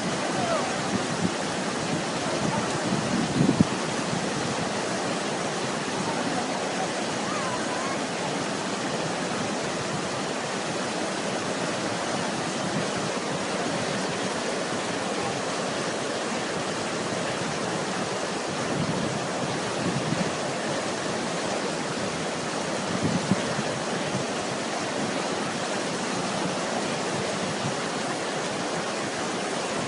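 Fast-flowing floodwater rushing in a steady, unbroken roar, with a couple of brief louder moments.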